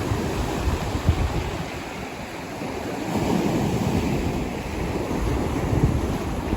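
Rough sea waves surging and breaking, a continuous rushing wash that swells about three seconds in, with wind buffeting the microphone.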